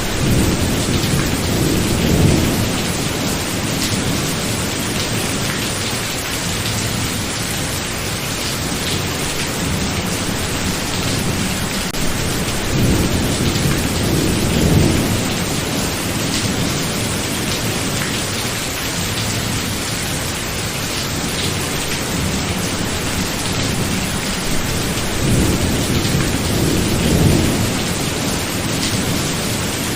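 Rainstorm: steady rain with thunder rumbling three times, once near the start, once in the middle and once near the end, each rumble swelling and fading over a few seconds.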